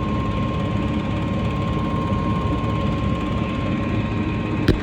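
Gas furnace running steadily with a low rumble and a thin steady whine, operating normally after a repair of its igniter, flame sensor and high limit switch. A single short knock near the end.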